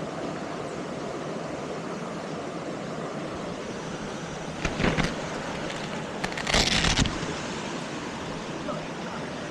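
Steady rush of a waterfall pouring into a pool. Two short, louder rushes of noise break in about five seconds in and again near seven seconds, the second one longer.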